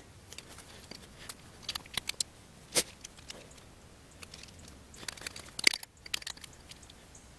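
Hand tool stripping the insulation off the end of a battery cable: a scatter of sharp clicks, snaps and small tearing and crunching sounds, the loudest a little under 3 seconds in and near 6 seconds in.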